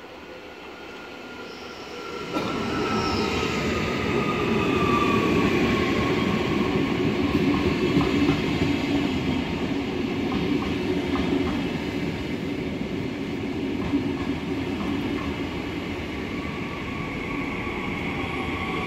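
A red double-deck regional train arrives and rolls past close by, with a rumble of wheels on rails that grows sharply louder about two seconds in. A whine falls slowly in pitch through the first few seconds.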